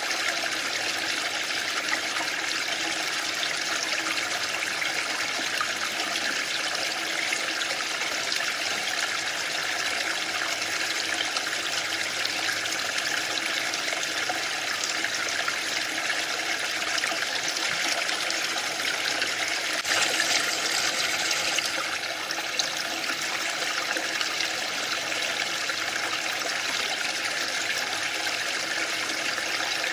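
Waterfall rushing steadily in an even hiss of falling water, with a brief, slightly brighter surge about two-thirds of the way through.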